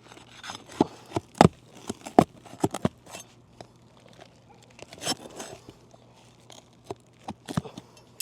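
A roofing bar prying nails out from under asphalt shingles: a run of irregular sharp knocks, clicks and scrapes of metal on nails and shingle, with pauses between, loudest in the first few seconds.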